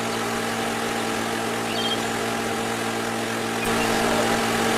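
A small motor running with a steady, even hum, getting slightly louder near the end.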